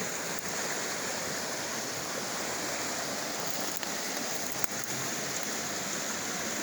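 Creek water rushing steadily, an even hiss, with a couple of faint clicks a little after the middle.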